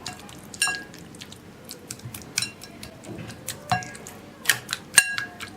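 Hands rubbing spice paste into a raw chicken piece, soft wet squishing, broken by several sharp ringing clinks of dishware.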